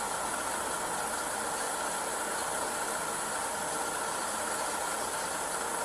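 Steady hiss and hum of an idling vehicle engine, unchanging throughout.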